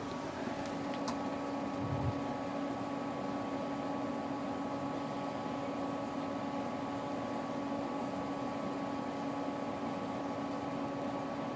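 Girard tankless water heater running on a hot-water demand from the shower: a steady hum of its blower with a few faint ticks in the first second and a short low thump about two seconds in.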